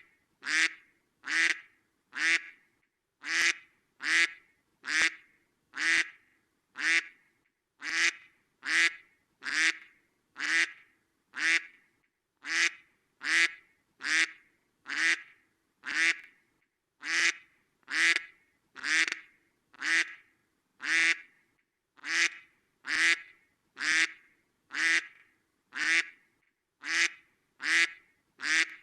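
A duck quacking over and over in an even, unbroken run of short quacks, about two a second.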